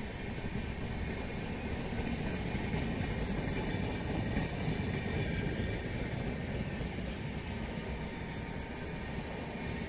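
Passenger coaches of an Indian Railways express train rolling past, a steady rumble of wheels on rail.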